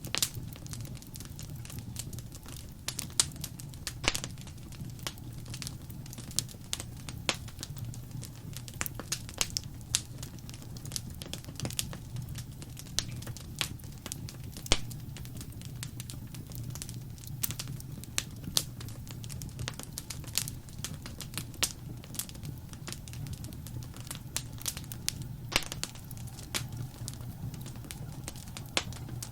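Wood fire crackling: irregular sharp pops and snaps, a few louder ones, over a steady low rumble of the flames.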